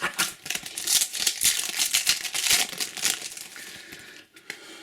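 Trading-card foil packet crinkling and rustling in the hands, a dense crackle that eases off after about three and a half seconds.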